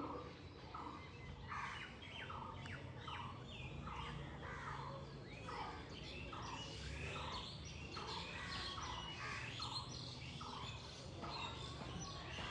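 Several birds calling over and over in quick succession, short calls several times a second, over a low steady rumble.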